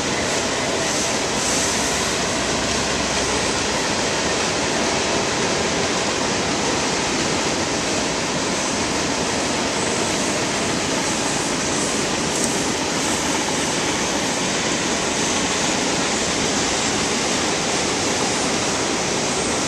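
Cars of a freight train rolling along the track, heard from high above as a steady rushing noise.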